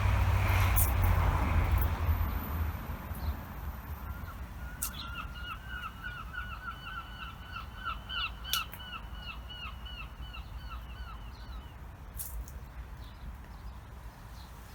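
A passing vehicle's low rumble fading out over the first couple of seconds, then a bird calling a long run of about twenty short, evenly repeated notes, two to three a second, stopping about three seconds before the end.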